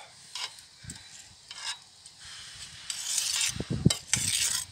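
Rice being levelled in a kazan: a few light scrapes and clicks, then a louder, longer rustling scrape in the last second and a half, with a couple of low knocks.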